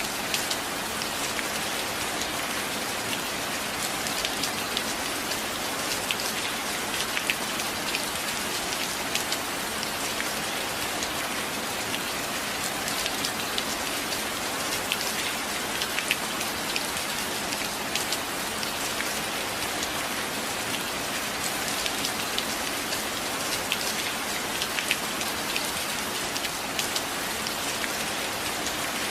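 Steady rain falling on a surface, an even hiss dotted with many small sharp drop ticks.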